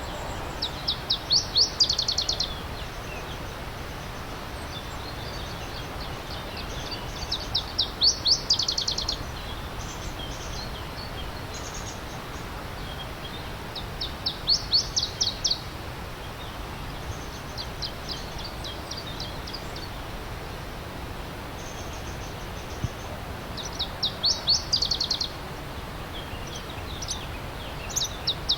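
A songbird repeating a short, high-pitched phrase of rapid sweeping notes about every five or six seconds, over the steady rush of a flowing stream.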